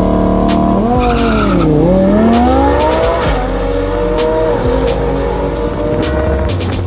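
A race car's engine revs high, its pitch dipping and then climbing again about two seconds in. It plays under a hip-hop beat with a steady bass and hi-hat.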